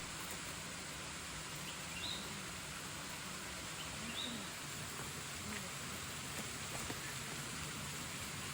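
Tropical forest ambience: a steady even hiss with a few faint, short bird chirps, two of them about two and four seconds in.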